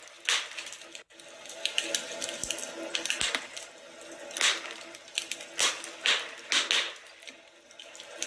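Wood fire crackling, with irregular sharp pops over a steady hiss and a split-second dropout about a second in.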